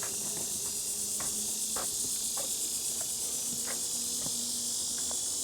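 Dense, steady high-pitched insect chorus from the surrounding woods, with regular soft footsteps on the trail at a walking pace.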